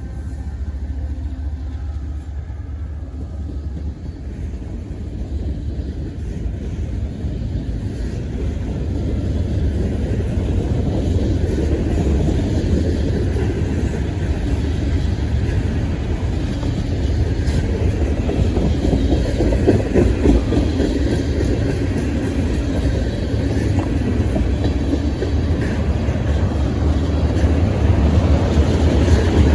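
CSX freight train passing: a steady low rumble of diesel locomotives and rolling railcars on the rails, growing louder over the first dozen seconds and staying loud.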